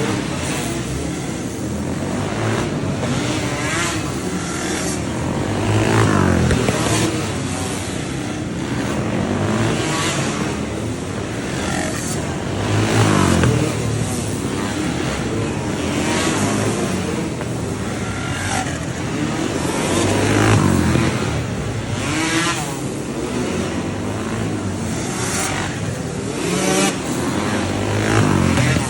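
Several flat track racing motorcycles running laps, engines revving up and dropping off as they go through the turns, with a bike passing every few seconds.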